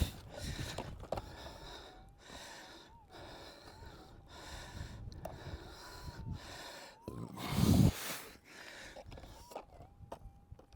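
Digging into hard-packed caliche: repeated scrapes and knocks of a digging tool in rock and dirt, with the digger's heavy breathing, one louder thump about eight seconds in, and a thin wavering metal-detector tone.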